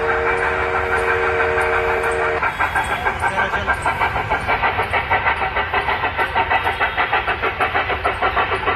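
Steam locomotive whistle sounding steadily for about two seconds, then giving way to rapid, even chuffing at about five beats a second.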